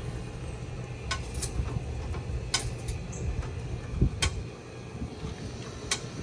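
Work under a car during an oil change: scattered sharp metallic clicks and a dull clunk about four seconds in, over a steady low rumble.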